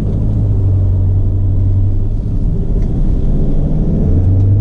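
Fiat Ducato recovery truck's diesel engine running, heard from inside the cab: a steady low hum that eases slightly a little past the middle and strengthens again near the end.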